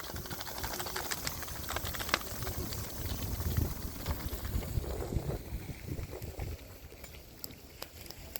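Chicken and masala cooking in a pot over a low flame: soft bubbling with scattered small crackles over a low steady rumble, easing off near the end.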